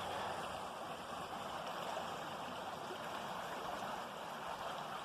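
Steady rushing of a small stream flowing over rocks.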